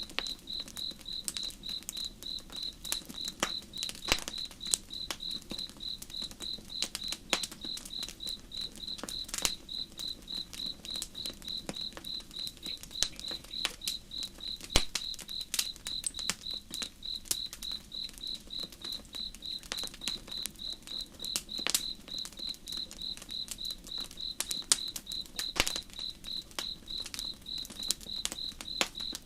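Campfire crackling with irregular sharp pops, over a cricket chirping steadily at a high pitch, about two to three chirps a second, and a faint low rush of the river.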